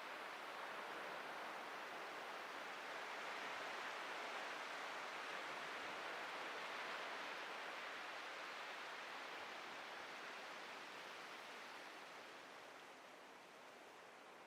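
Ocean surf washing on a beach: a steady hiss that swells over the first few seconds and slowly ebbs near the end.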